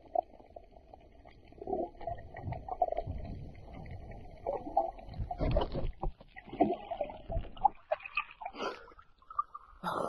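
Muffled water sloshing and gurgling picked up by a camera held at or under the surface while snorkelling, coming in uneven swells.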